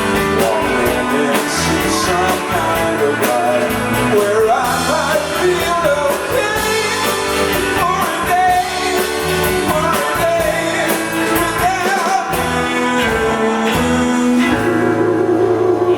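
Rock band playing live, with electric guitar, drums and singing, heard through a club PA; near the end the band settles on a long held chord.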